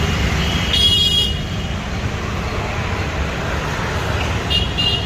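Steady low road-traffic rumble with two short, high tooting calls, one about a second in and a shorter one near the end.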